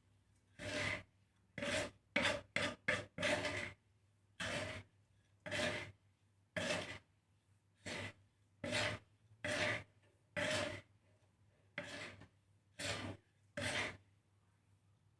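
A millet and seed mix being stirred in a dry pan while it roasts: rasping scrapes about one a second, with a quick flurry of strokes around two to three seconds in. The strokes stop shortly before the end.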